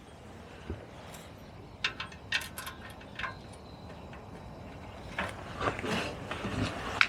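Small metal parts and hand tools clinking and tapping as bolts are fitted to a moped's frame, a few sharp clicks, then a busier run near the end with one loud click.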